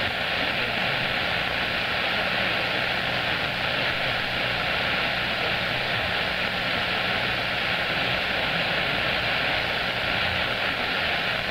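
CB radio receiver with the squelch open on a skip channel: a steady hiss of band noise, narrowed by the radio's limited audio range, with a faint steady tone underneath.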